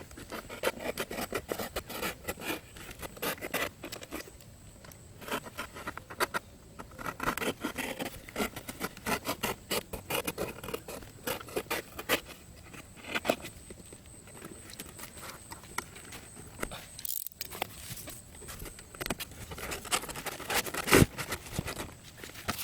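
Irregular scraping and tapping of hands working materials, with a single sharp knock near the end.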